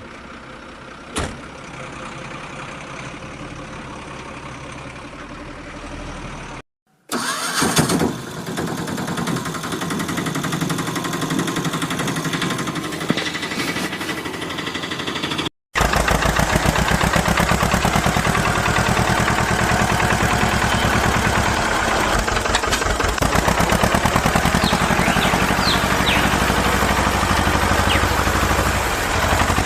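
A motor vehicle engine running, heard in three short clips divided by abrupt cuts. There is a quick rise in pitch about seven seconds in, and the loudest clip, near the end, has a fast, even firing beat.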